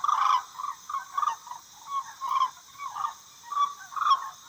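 Crane calling: a run of short repeated calls with brief pauses between them.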